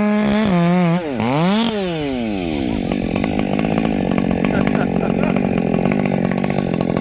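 Husqvarna 564XP two-stroke chainsaw with a 32-inch bar running at full throttle in a cut. About a second in the revs dip and rise again, then fall away, and the engine runs on at lower speed with an uneven pulsing.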